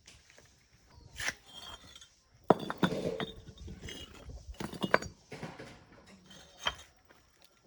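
Irregular metallic clinks and knocks of hand tools working on metal parts, with a few louder strikes.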